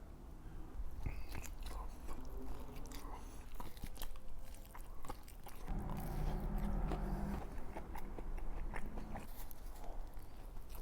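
Close-up biting and chewing of barbecue food, with short wet smacks and crunches, and a low hum for a few seconds past the middle.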